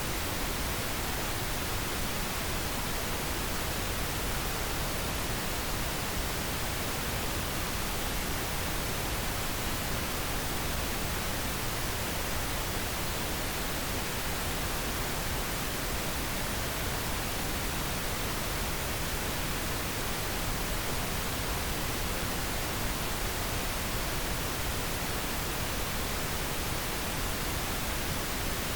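Steady, unbroken pink noise: an even hiss spread across all pitches, with no change in level.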